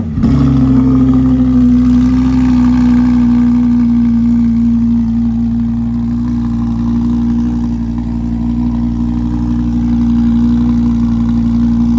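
Lamborghini Huracan's V10 engine just after startup, catching with a brief rise in revs and then settling into a steady fast idle. It is really loud, through an exhaust the onlooker judges definitely not stock.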